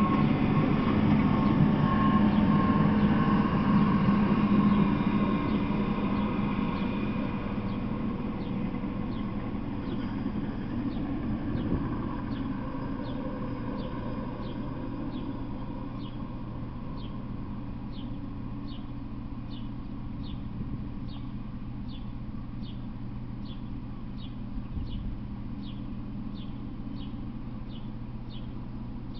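Rumble of a freight train moving away, fading over the first several seconds and leaving a low steady hum. From about a quarter of the way in, a short high chirp repeats a little more than once a second.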